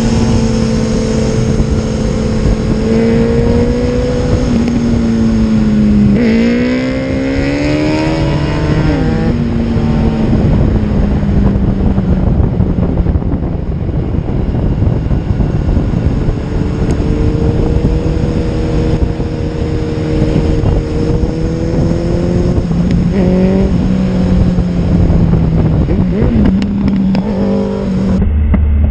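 Sport motorcycle engine running at a steady cruise under strong wind rush. About six seconds in the revs climb sharply under acceleration, then drop back about three seconds later.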